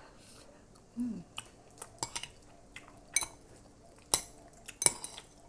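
An eating utensil clinks and taps against a food container several times, in short, sharp, separate clicks. A brief low voice sound comes about a second in.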